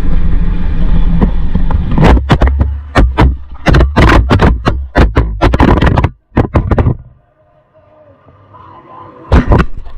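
A Sur Ron electric dirt bike on an off-road ride: a low rumble, then a rapid string of sharp knocks and rattles for about five seconds. It then drops much quieter, with two more knocks near the end.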